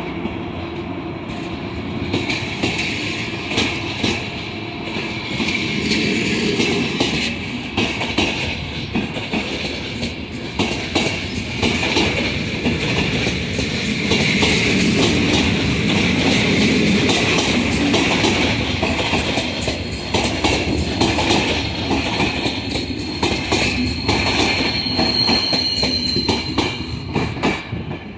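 Passenger train coaches rolling past close by as the train pulls out, wheels clicking over the rail joints with some wheel squeal. A thin, high squeal stands out about three-quarters of the way through as the last coach moves off.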